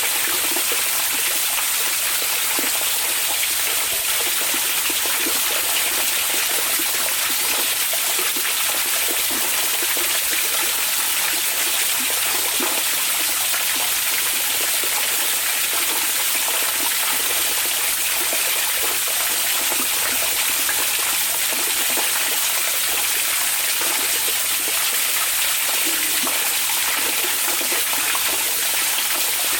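Hot spring water flowing steadily into an onsen bath: a constant, even rush of water with fine splashing and no break.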